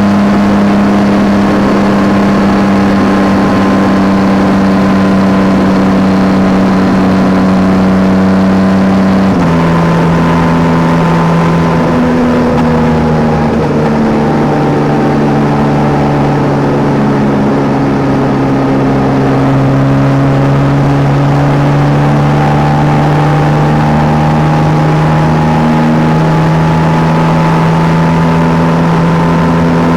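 Yamaha Tracer 9 GT's 890 cc inline-three engine running under way at steady revs; its pitch drops suddenly about a third of the way in, holds lower, then slowly climbs again near the end.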